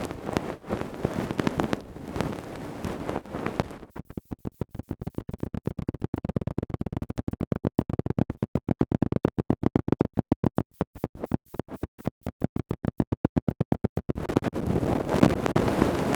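Close-miked ASMR ear-cleaning sounds: scratching and rubbing on the microphone. About four seconds in, this gives way to around ten seconds of fast, even pulses, then the scratching returns near the end.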